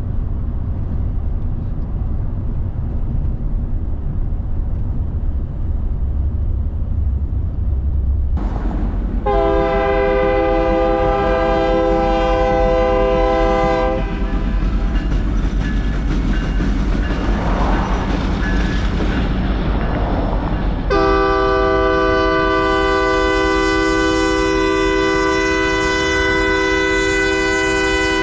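BNSF freight locomotive's air horn sounding two long blasts, the first about nine seconds in and a longer second one near the end. A steady low rumble from the passing train runs underneath.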